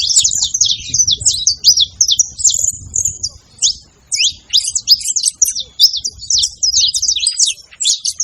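Saffron finch singing: a fast run of sharp, high chirps, breaking off briefly a little before the middle and then going on.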